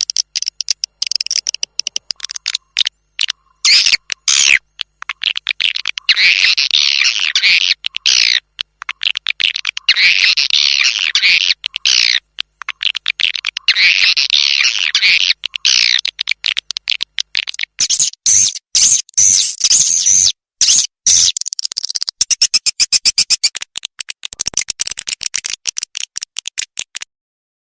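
Edible-nest swiftlet twittering chirps played as a swiftlet-house lure recording: dense high chirping in clusters, cut by abrupt silent gaps, turning to quick repeated chirps near the end before stopping suddenly.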